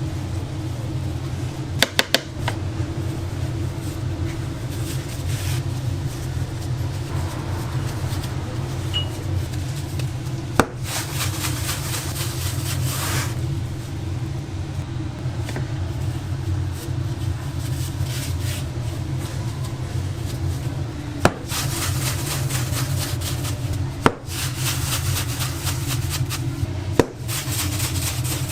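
Food preparation by hand on a work table: rubbing and handling sounds with a few sharp knocks, over a steady low machine hum.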